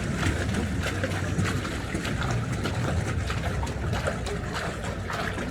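Rope-hauled boat cradle of a canal inclined plane moving on its rails: a steady low rumble with water trickling and many short clicks.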